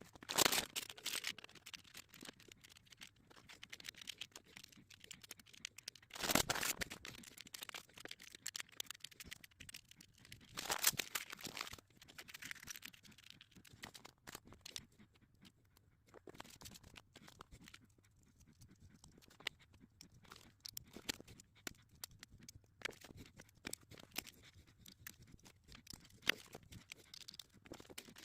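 Small plastic LEGO pieces clicking and rattling as they are handled and pressed together, with louder bursts of plastic-bag crinkling about half a second in, near six and a half seconds and near eleven seconds.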